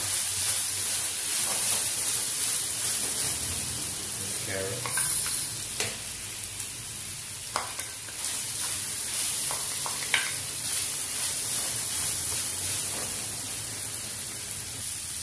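Diced chicken breast sizzling in a nonstick frying pan as a wooden spatula stirs it, with a few sharp knocks of the spatula while diced carrots are scraped in from a bowl.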